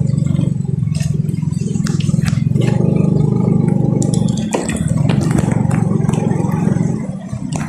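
A motor vehicle's engine running steadily while travelling, a dense low pulsing drone, easing briefly about four and a half seconds in and again near the end. Scattered sharp ticks sound over it.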